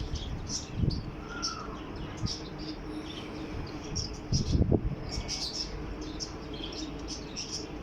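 Birds chirping with many short, high chirps throughout, and a couple of low thumps, about a second in and again around the middle.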